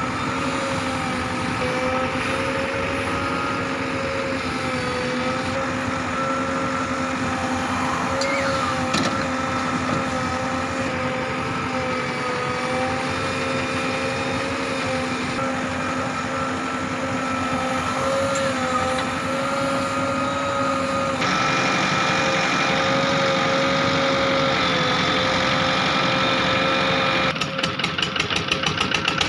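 JCB 3DX backhoe loader's diesel engine running steadily, its pitch wavering slightly as it works. The sound turns louder abruptly about two-thirds of the way in, and near the end it becomes a fast, rhythmic pulsing.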